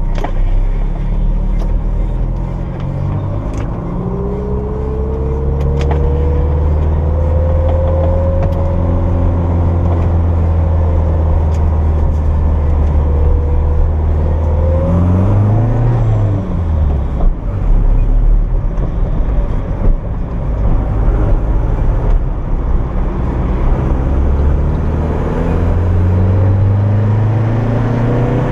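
Turbocharged Toyota MR2's engine heard from inside the cabin while lapping, its pitch climbing slowly under acceleration and holding, then dropping and rising again about halfway through before running steady at speed.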